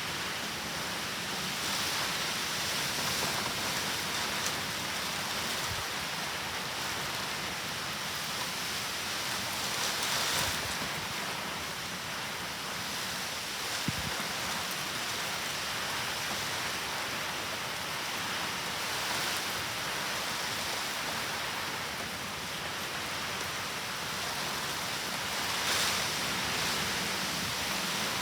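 Heavy typhoon rain falling steadily, swelling louder every several seconds, with a single sharp tick about halfway through.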